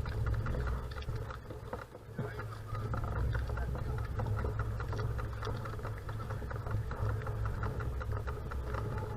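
Outdoor wind rumble on the microphone, with scattered small clicks and faint background voices.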